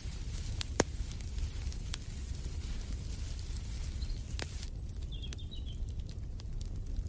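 Fireplace fire crackling: scattered sharp pops over a low steady rumble, the loudest pop about a second in. Faint bird chirps come in about five seconds in.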